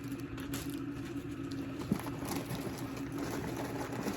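Faint rustling and handling of small packaged items, with one sharp click about two seconds in, over a steady low hum.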